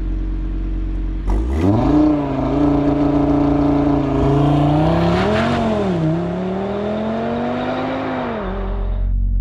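Audi TT RS turbocharged five-cylinder engine revved from idle and held at high revs by launch control while the car stands still. The revs waver briefly in the middle, then fall back to idle near the end.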